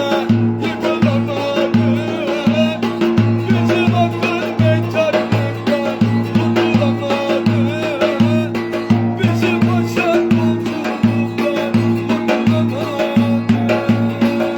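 Instrumental Turkish Black Sea folk dance music (oyun havası): a steady, driving low bass-and-drum beat under a quick, ornamented melody line.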